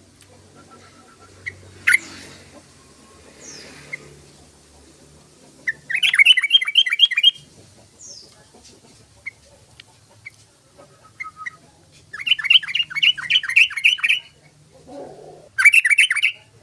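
Yellow-vented bulbul (trucukan) singing: three loud runs of quick, repeated bubbling notes, each lasting a second or two, with single short chirps in between.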